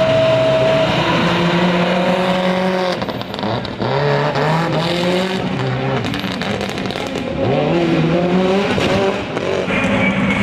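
Rally car engine running hard, its pitch climbing and dropping in steps through gear changes.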